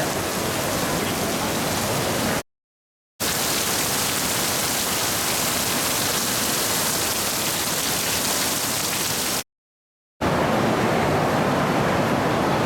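Heavy downpour of a sudden thunderstorm: a steady, loud hiss of rain, cut off twice by brief total silences.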